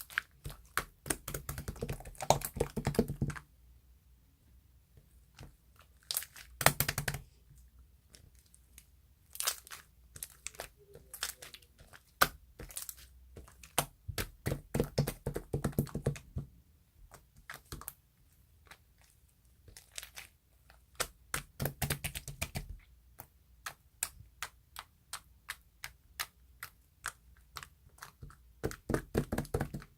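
Close, crisp crackling clicks, gathered into dense bursts of a second or two several times and scattered singly in between.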